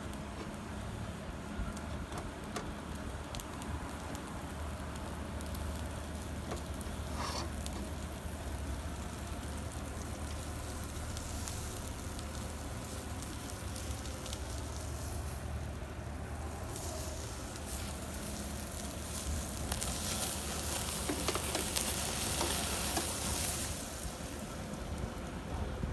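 Kebab meat sizzling over a cooking fire, a steady frying hiss that grows louder for a few seconds near the end, over a steady low hum.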